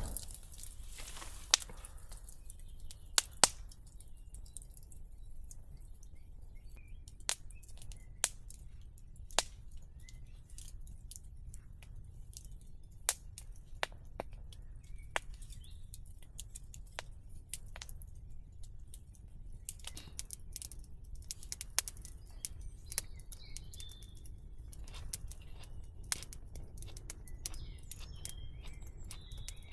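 Wood fire crackling, with sharp, irregular pops scattered throughout, over faint birds chirping.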